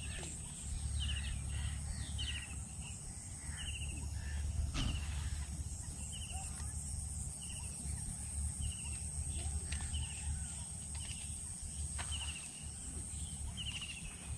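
A bird calling over and over, short scratchy notes about once a second, above a steady low rumble, with a few faint clicks.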